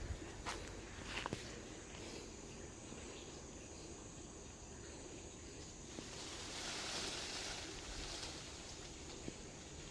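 Faint outdoor ambience: a steady low hiss, with a few light clicks in the first second and a half and a rustling swell that rises and falls about seven seconds in.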